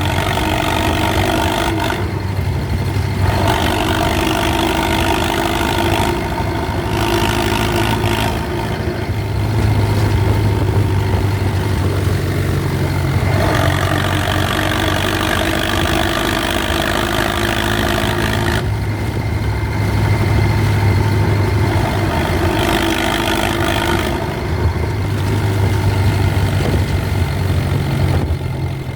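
HMT 6522 DI diesel tractor engine running under load while pulling a fully loaded trolley: a steady, loud low drone whose tone shifts abruptly every few seconds.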